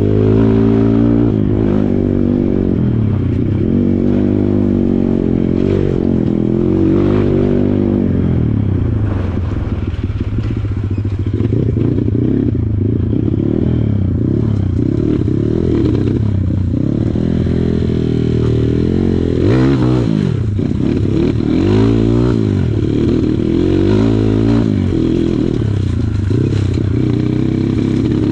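Kawasaki KLX140 trail bike's small single-cylinder four-stroke engine revving up and down again and again as it is ridden over rough ground, with rattling and scraping along with it.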